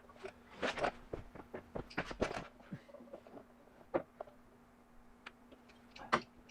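Scattered clicks, taps and light knocks from parts and tools being handled, irregular and uneven, over a faint steady hum.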